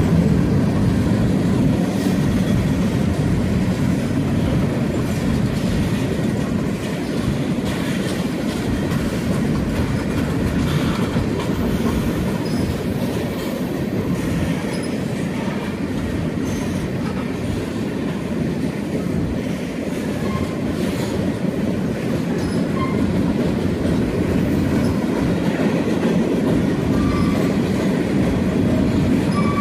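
Freight cars of a Union Pacific train, boxcars and covered hoppers, rolling steadily past at close range: a continuous rumble of steel wheels on rail with clicks and a few short, high squeaks.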